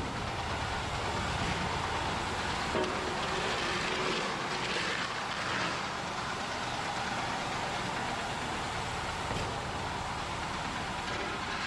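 A vehicle engine running steadily, with an even rushing noise and no clear changes.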